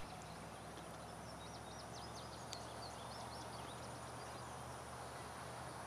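Outdoor ambience: a steady background hiss with a faint low hum, and small birds chirping briefly between about one and four seconds in.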